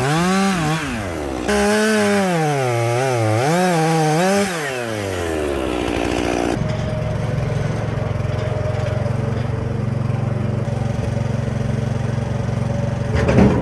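Chainsaw cutting, its engine pitch rising and dipping under load. About five seconds in the throttle is released and the pitch falls away. After an abrupt change it gives way to a steady low engine drone, with a short knock near the end.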